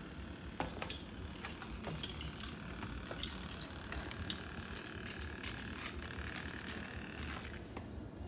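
Moluccan cockatoo handling a hard object with its beak: scattered light clicks and taps over a low steady rumble.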